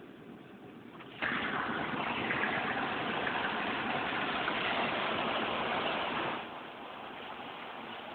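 Truck driving through floodwater: a steady rush of water and road noise that turns suddenly much louder about a second in and drops back after about five seconds.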